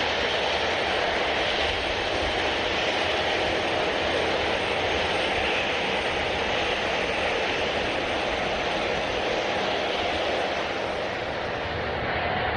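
Airliner engines running with a steady, loud noise. Shortly before the end the sound turns duller as the highest frequencies fall away.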